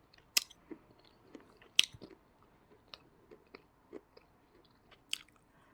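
Close-up chewing of dry edible clay, with scattered sharp crunches. The loudest crunches come about half a second in, just under two seconds in, and about five seconds in.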